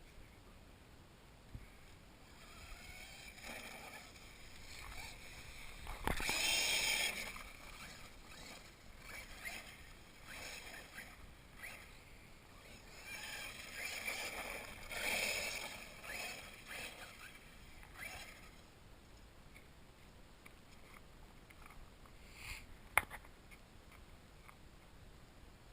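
1/8 scale RC monster truck driving in bursts, its motor whine and tyre noise rising as it accelerates, loudest twice, about six seconds in and again around fourteen seconds. A sharp click sounds near the end.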